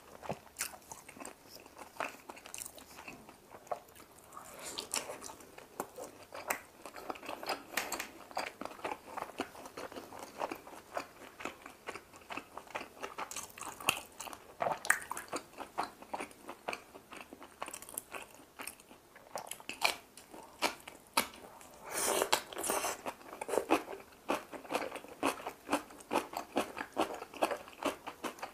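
Close-miked chewing and biting of pan-fried dumplings and kimchi: many crisp crunches and wet mouth clicks, with a louder, denser stretch of crunching about three-quarters of the way through.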